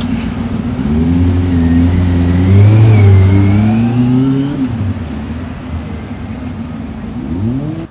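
Yamaha YZF-R6 600cc inline-four with a Micron aftermarket exhaust, running and then revving up. From about a second in its pitch rises in steps for a few seconds, then it drops back to a steadier, quieter note.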